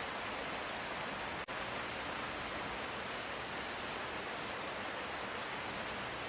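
Light rain falling steadily, an even hiss of drops with no thunder, broken by a split-second gap about one and a half seconds in.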